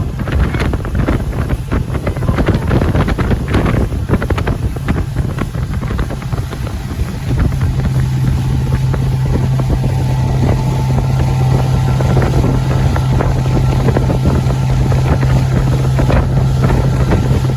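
Motorboat under way, its engine running with heavy wind buffeting the microphone; about seven seconds in, a steady low engine hum settles in.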